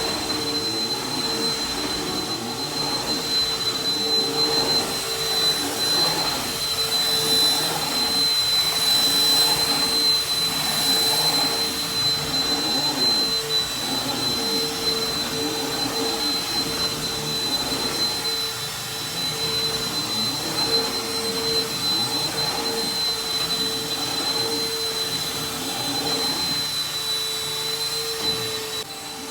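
Household vacuum cleaner running steadily on carpet: a constant motor whine over a rushing air noise that swells and fades as it is pushed back and forth, dropping a little in level near the end.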